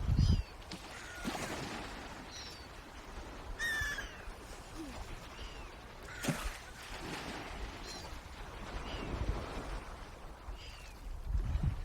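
Birds calling: short, high chirps that fall in pitch, every second or two, with one louder, fuller call about four seconds in. Low rumble near the start and end.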